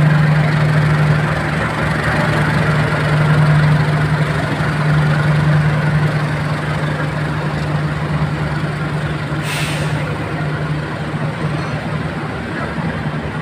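Diesel locomotive of a passenger train departing, its engine running with a steady low hum over the rumble of the train, slowly fading. A brief hiss comes about nine and a half seconds in.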